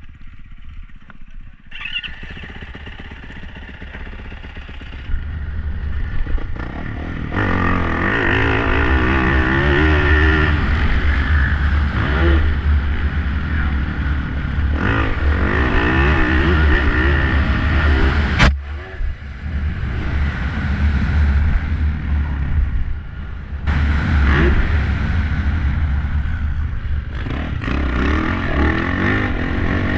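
Motocross dirt bike engine revving up and down as it is ridden around the track, over heavy wind rumble on the microphone, with a sharp knock about two-thirds of the way through.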